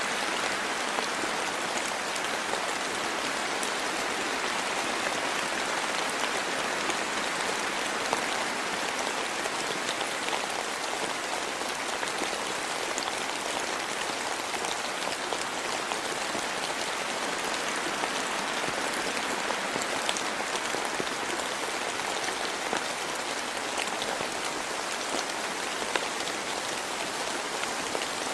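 Steady rain falling, an even hiss of many drops with a few louder single drops tapping now and then, notably about eight seconds in and near the end.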